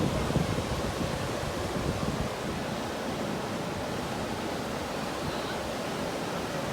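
Ocean surf washing steadily onto the beach, with wind buffeting the phone's microphone, strongest in the first couple of seconds.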